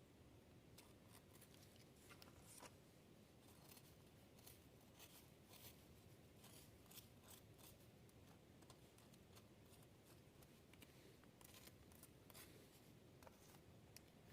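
Near silence: a faint low background with scattered soft, irregular clicks and ticks.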